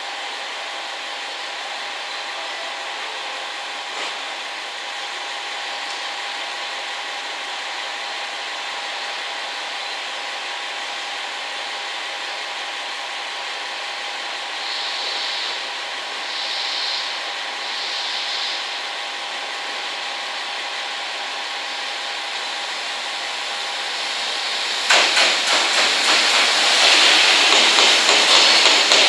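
Container freight train hauled by a JR Freight EF210 electric locomotive approaching with a steady hiss. Near the end it gets much louder as the container flatcars pass close by, wheels clattering over the rail joints.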